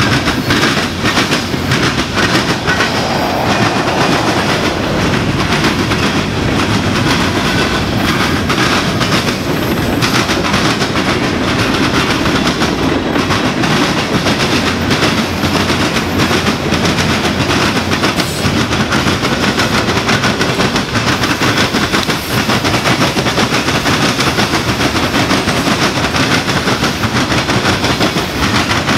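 Freight cars of a Norfolk Southern manifest train rolling past, their wheels banging over a railroad diamond crossing in a rapid, continuous clatter.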